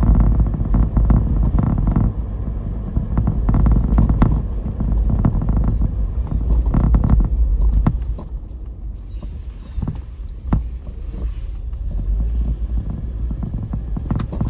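Road noise inside a moving car: a steady low rumble of tyres on the road with scattered short knocks, easing somewhat about halfway through.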